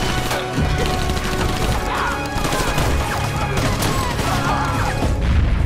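Dense, continuous gunfire from many guns at once, with a music score underneath.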